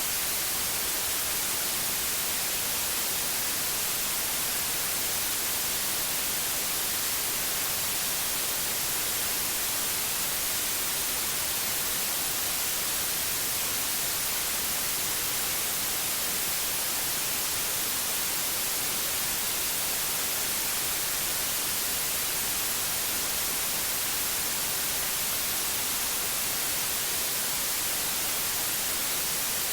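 Electronically generated white noise: a steady, even hiss, brightest in the high frequencies, that never changes.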